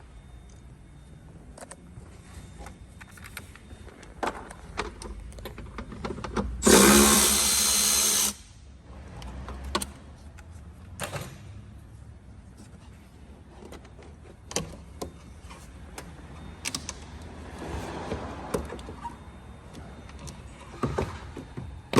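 A handheld power tool runs for nearly two seconds, starting and stopping abruptly, while fasteners come off an engine cover. Scattered clicks and knocks of parts and tools being handled come before and after it.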